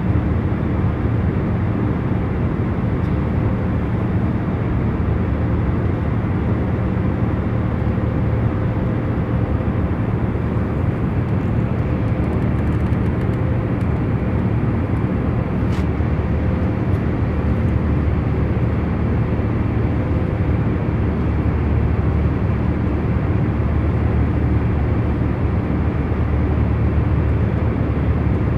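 Steady deep hum and rush of a jet airliner's cabin in cruise flight, even throughout, with a few faint steady tones running through it. A single faint click sounds partway through.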